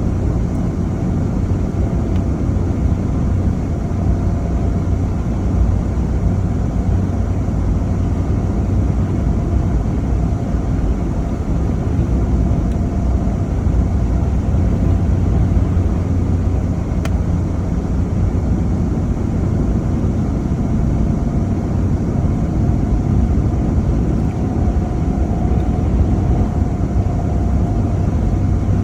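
Steady rumble of a vehicle driving, a continuous mix of road and engine noise, with a single sharp click about seventeen seconds in.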